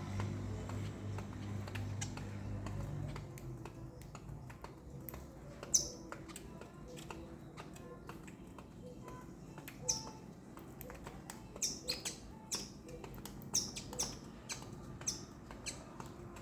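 Small birds giving short, sharp, high chirps that fall in pitch, scattered irregularly and coming more often in the second half, with faint clicking and tapping among them. A low drone is heard for the first few seconds.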